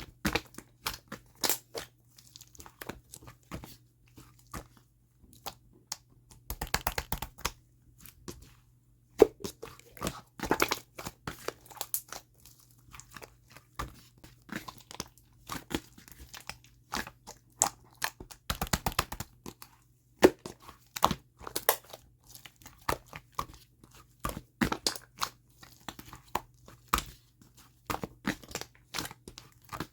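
A slime being squeezed, pressed and stretched by hand, giving a continual run of sharp clicks and pops, with two denser crackling stretches about 7 and 19 seconds in.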